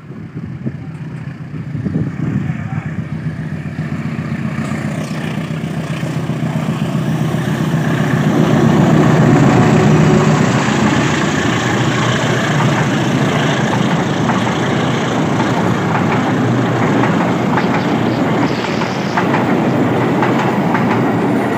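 CC 201 diesel-electric locomotive hauling a passenger train, approaching and passing close by. Its engine grows louder to a peak as the locomotive goes past about nine to ten seconds in, then the coaches roll by with steady running noise and repeated clicking of wheels over rail joints.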